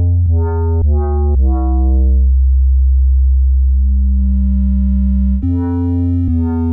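Dub bass patch on the Arturia Pigments software synthesizer playing a short, deep bass phrase: three quick notes, then one long held note that turns brighter and more metallic partway through. The phrase starts again near the end.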